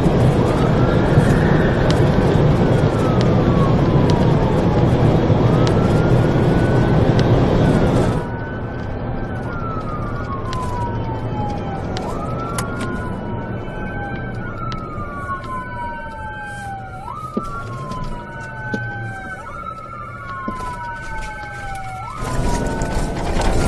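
Police car siren in a wail pattern, rising and falling every couple of seconds over loud road and engine noise of the cruiser in a high-speed pursuit. The road noise drops sharply about eight seconds in, and later a second wail overlaps the first.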